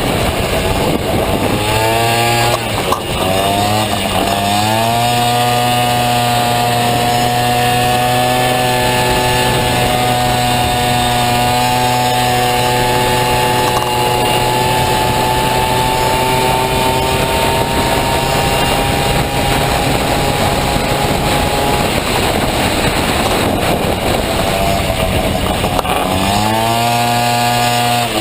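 Two-stroke single-cylinder Honda Dio scooter engine in a Honda Motocompo, revving hard. It climbs quickly in pitch a few seconds in, then holds high revs with the pitch slowly creeping up. Near the end it drops off and revs up again.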